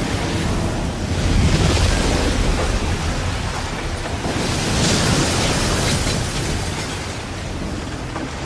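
Stormy wind-and-rain noise with a deep low rumble, swelling about a second in and again around five seconds.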